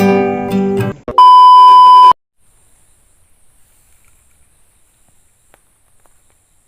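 Acoustic guitar song that stops about a second in, followed by a loud electronic beep: one steady pure tone lasting about a second that cuts off sharply. After it there is only a faint background with a steady thin high hiss.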